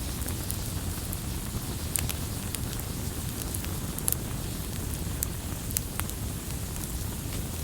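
Wood campfire burning, with a low steady rumble and scattered sharp crackles and pops, the loudest about two and four seconds in.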